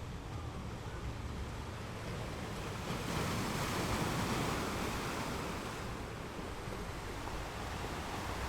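Ocean waves breaking on rocks: a steady wash of surf that swells into a louder break about three seconds in and eases off again about three seconds later, over a low rumble.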